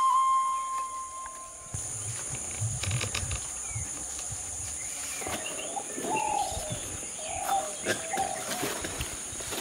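Birds calling in open rural country, with a few short low calls a little past halfway, over a steady high drone that sounds like insects.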